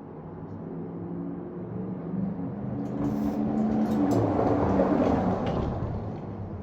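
A vehicle passes by, growing louder to a peak about four to five seconds in and then fading away.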